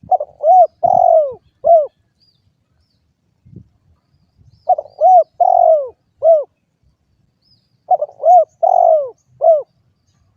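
Spotted dove (derkuku) cooing: three calls about three seconds apart, each a phrase of four notes (two short, one longer, one short).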